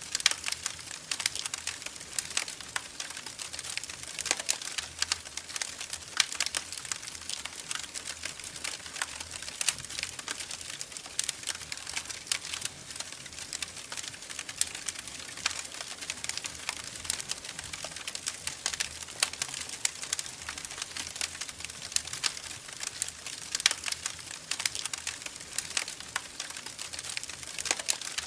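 Wood fire crackling in a fireplace: a steady hiss with frequent sharp, irregular pops and snaps.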